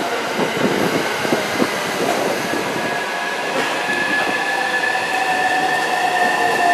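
JR Yokosuka Line electric commuter train pulling into the platform and slowing down. The wheels clatter at first, then a steady high whine sets in that falls slowly in pitch as the train brakes.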